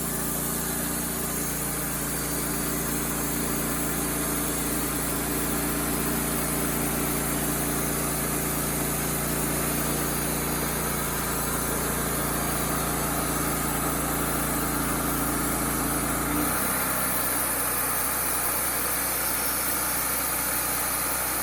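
Wood-Mizer LT35HD band sawmill running steadily while sawing a red oak log. The tone shifts abruptly about 16 seconds in: the low hum drops and a high hiss grows.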